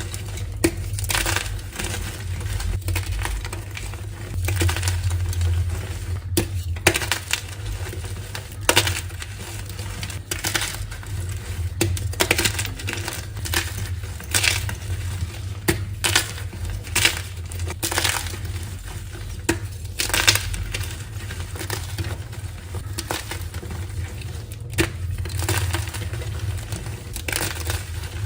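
Blocks of dyed gym chalk being crushed by hand, crunching and crackling in irregular clusters of sharp crumbles.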